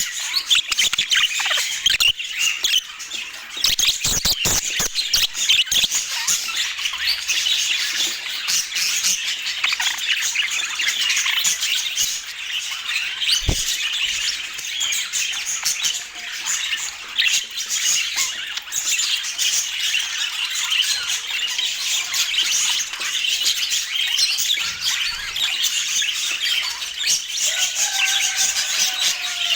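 Budgerigars chirping and chattering non-stop in a dense high twitter, with a few sharp clicks about four seconds in and a single knock near the middle.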